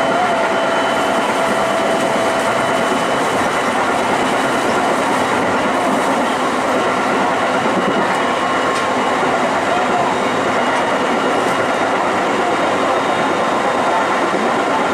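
A train running steadily: an even rumble of wheels on rails, with a faint whine in the first few seconds and a few faint clicks.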